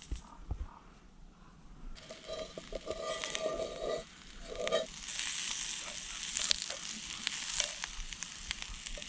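Fajita filling sizzling in a frying pan over a campfire. A few light knocks come first; the sizzle starts about two seconds in and turns into a full, crackling fry from about five seconds on.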